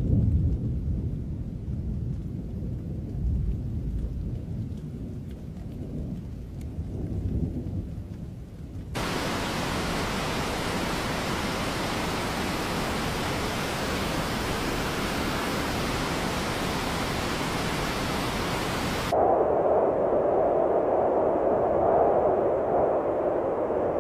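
Relaxation nature-sound track cut together from separate noise beds: low rolling thunder rumble with swells for about nine seconds, then an abrupt switch to a steady bright hiss like heavy rain, then a second abrupt switch to a duller, steady hiss.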